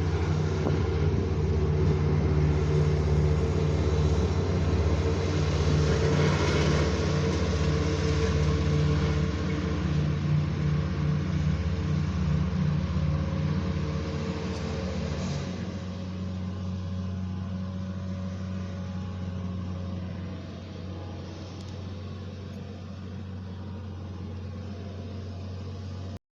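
An engine running steadily with a low hum. It changes note about fifteen seconds in, grows gradually quieter, and cuts off suddenly near the end.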